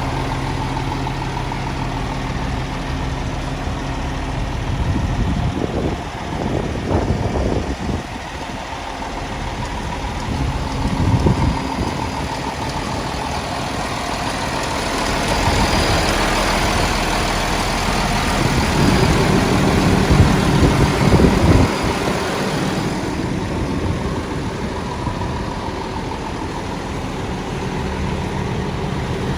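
Diesel engine of a 2014 Peterbilt 320 rear-loader garbage truck running, steady at idle for the first few seconds, then swelling and falling in loudness several times, with a louder stretch and a hiss about two-thirds of the way through.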